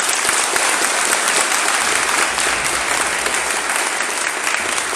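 An audience applauding loudly, a dense round of many hands clapping.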